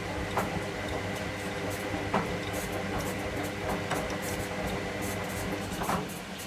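Electra AWF683 front-loading washing machine running mid-cycle: a steady motor hum with a thin high whine, and a few sharp knocks from the drum and load at irregular intervals. The whine stops near the end and the hum begins to fade.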